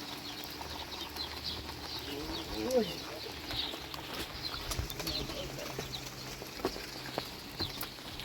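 Small birds chirping again and again in short high calls, with one brief call that rises and falls about three seconds in, over a faint low steady hum.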